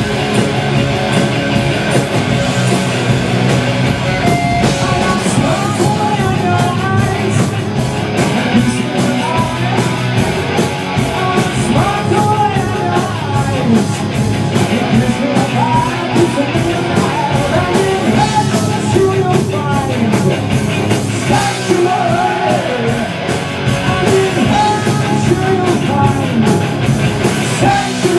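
Live rock band playing loudly, with a singer over the band, recorded close to powerful speaker cabinets in a small room on a camcorder's built-in microphone.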